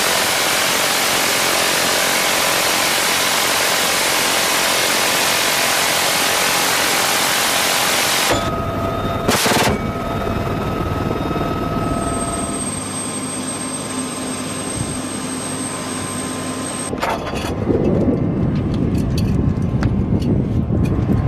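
UH-1Y Venom helicopter running: a loud, even roar for the first eight seconds that stops suddenly, then a quieter stretch with steady turbine tones, and a lower rumble from about three-quarters of the way through.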